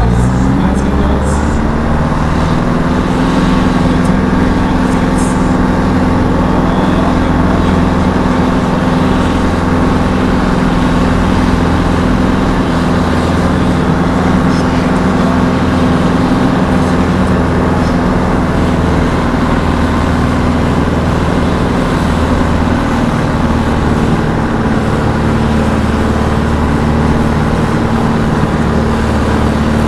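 Tractor diesel engine running hard at steady high revs. It climbs in pitch in the first second, then holds one even note.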